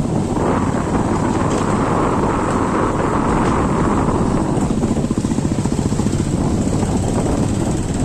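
A vehicle engine running steadily on the move, with wind and road noise over the microphone.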